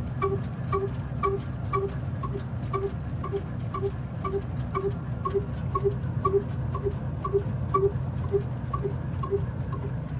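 Old diesel engine running steadily at slow speed, with an even beat of about four sharp, ringing knocks a second over a low hum.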